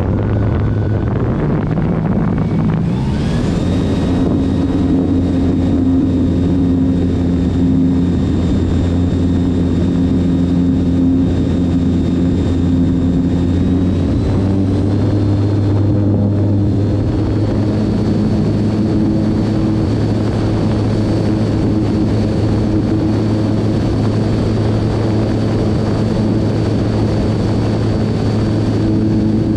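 Electric motor and propeller of an E-flite Timber Evolution RC plane running under power: a steady whine over rushing air. The pitch rises about three seconds in and steps up again around the middle.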